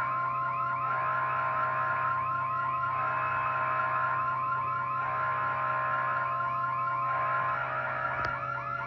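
Electronic alert siren: rapid warbling whoops repeating about five times a second, with a steady high tone held over them that stops near the end, and a low steady hum beneath. A single click sounds near the end.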